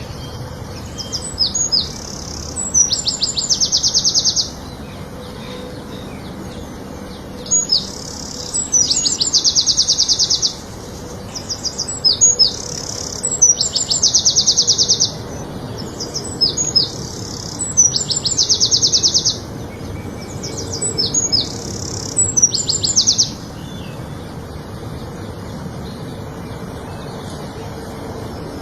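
A songbird singing the same short song five times, one about every five seconds: a few high, sharp notes followed by a fast, even trill. It goes quiet about 23 seconds in, leaving a steady low hiss.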